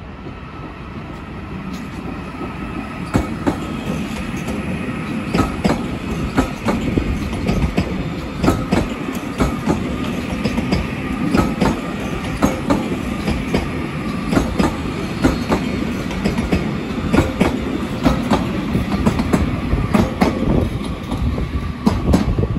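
Northern passenger multiple-unit train running over points and curved track, its wheels clicking over rail joints and crossings, with a faint steady wheel squeal; it grows louder over the first few seconds as it draws near.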